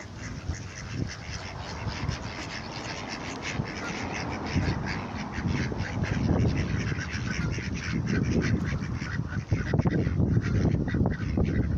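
A flock of hungry ducks quacking in a dense, continuous clamour, growing louder from about four seconds in.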